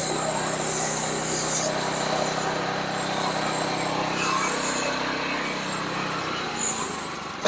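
Sawmill's small engine running at a steady pitch, dying away near the end.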